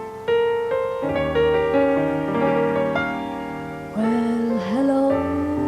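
Ballad intro played on piano, a run of separate notes, with a singer coming in about four seconds in on a long note that slides up.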